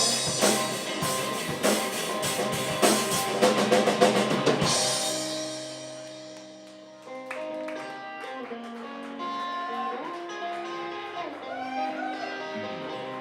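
Live rock band playing an instrumental passage: drum kit and guitars together for about five seconds, then the drums stop and the sound dies down, leaving a quiet picked guitar line with a few bent notes from about seven seconds in.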